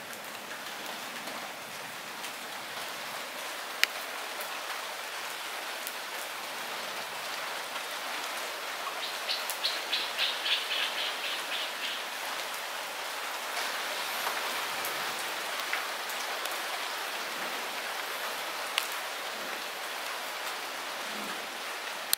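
Light rain falling steadily as an even hiss, with a few sharp single drop hits. Near the middle, a run of rapid, high-pitched pulses lasts about three seconds.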